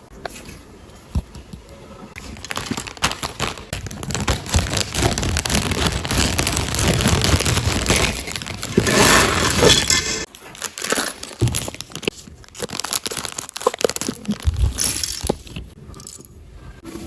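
LEGO bricks and their plastic packaging being handled: a dense run of clicks, rattles and crinkling, busiest from about three to ten seconds in, then more scattered clicks.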